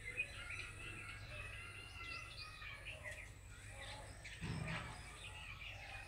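Several small birds chirping and whistling faintly in overlapping calls, over a low steady background rumble.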